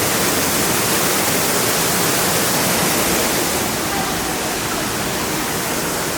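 Steady rushing of falling water, a constant hiss that eases slightly a little over halfway through.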